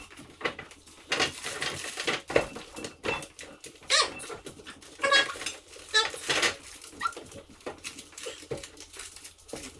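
Clatter and knocks of a plastic fridge rack being wiped and handled, with several short high-pitched squeaks between them.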